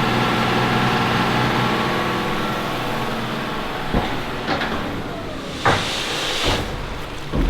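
Tractor engine running steady as a loaded silage trailer comes in, then several sharp clunks and knocks over the last few seconds.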